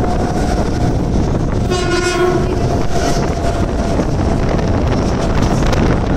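Mumbai local electric train running along the track with a steady rumble and rushing noise. A train horn sounds once, for under a second, about two seconds in.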